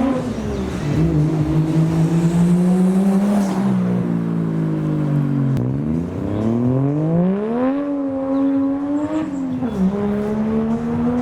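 Toyota Chaser's engine pulling away: the revs hold, fall off around five seconds in, climb again, then drop sharply about nine and a half seconds in and rise once more, like a gear change.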